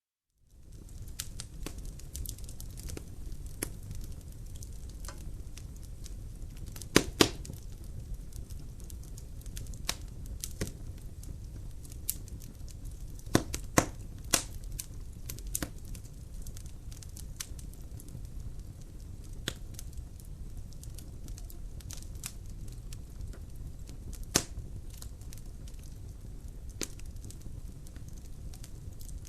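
Logs burning in a fireplace, crackling with many sharp pops over a low, steady rumble of the fire, and a few louder pops among them. The sound starts abruptly after a moment of silence.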